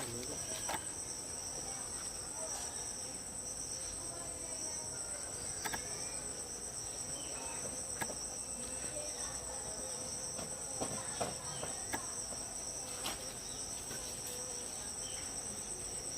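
A steady, high-pitched chorus of insects, with two unbroken high tones, and a few faint scattered clicks.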